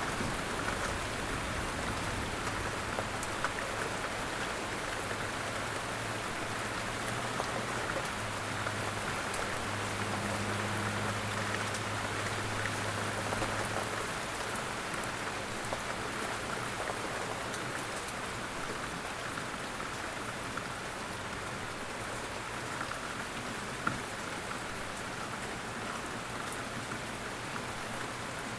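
Steady rainfall, an even hiss of drops on surfaces with scattered individual drop clicks, and a faint low rumble under it for roughly the first half.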